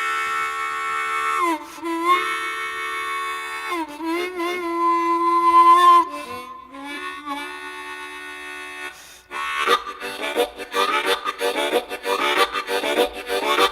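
Solo blues harmonica opening a Southern rock song in imitation of a train. It plays long held chords with bends that dip and slide like a train whistle, then about nine seconds in it breaks into a fast, steady chugging rhythm.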